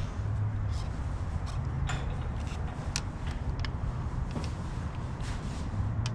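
Scattered light clicks and knocks of hand tools and engine parts being handled, over a steady low hum.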